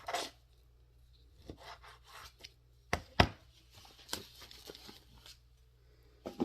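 Knife cutting raw chicken tenderloins into bite-sized pieces: scattered sharp knocks of the blade on the cutting board, two close together about three seconds in, with softer slicing and scraping between them.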